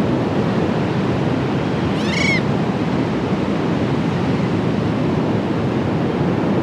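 Loud, steady rushing ambient noise, like a sound bed laid under the animation. About two seconds in comes a single short high animal call that rises and falls.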